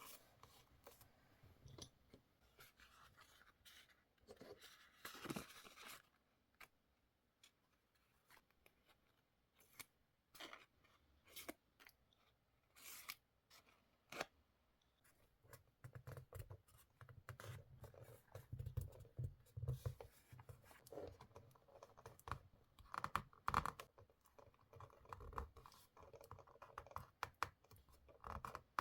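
Quiet paper-crafting sounds: scissors snipping paper, paper rustling and scraping, and small taps and clicks of stationery being handled on a desk, with a denser stretch of handling and soft thumps in the second half.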